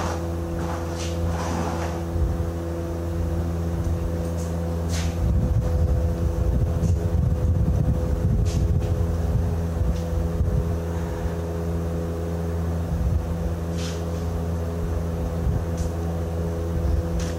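An engine running steadily at a constant speed, with a few short knocks and clinks on top, the clearest about 5, 9 and 14 seconds in.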